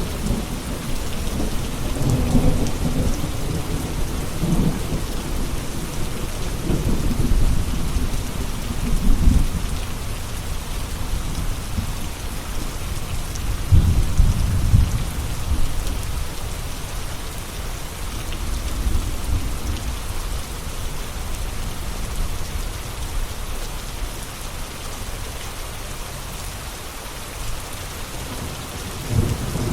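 Steady rain with thunder rumbling low several times, the strongest swells about a third and halfway through.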